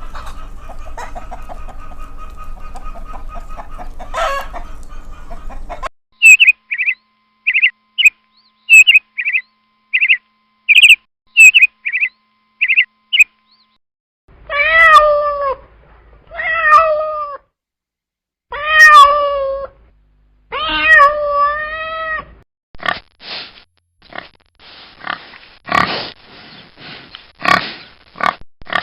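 A run of different animal calls in turn: about a dozen short high chirps, then four long calls that waver in pitch, then a quick series of rough, noisy grunts. Before them comes a stretch of steady background noise.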